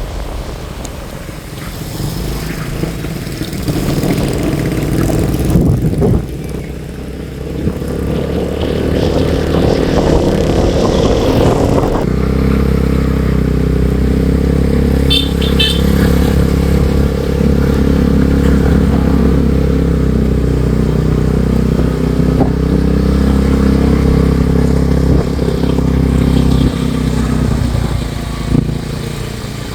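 Motorcycle engine running while being ridden, uneven at first and settling into a steady note from about twelve seconds in.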